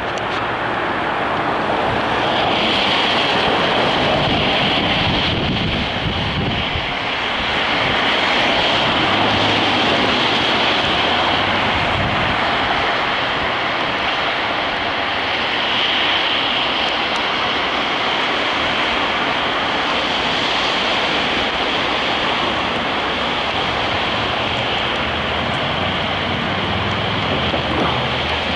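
Steady road and wind noise of a car driving at speed, with no break or sudden event.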